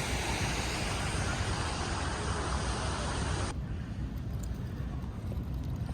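Steady road traffic noise with a low rumble; the higher hiss drops away abruptly about three and a half seconds in.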